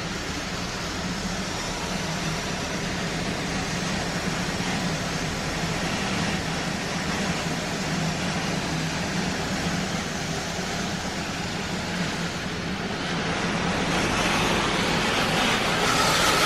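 Belanger tunnel car wash equipment running: a steady low hum under a wide rushing noise that grows louder and hissier near the end.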